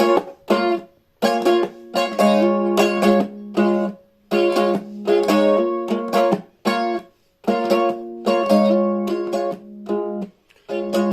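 Instrumental break of a song on a strummed plucked-string instrument, such as a ukulele or acoustic guitar. The chords are struck in short choppy groups with brief stops between them.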